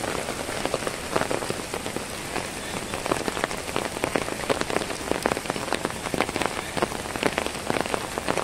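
Heavy rain falling on a wet road: a steady hiss with many sharp, close drop hits.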